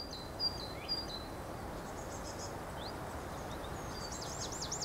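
Birds chirping over a steady outdoor background noise. There are a few short chirps at the start, a single rising whistle partway through, and near the end a quick run of about five repeated looping notes a second.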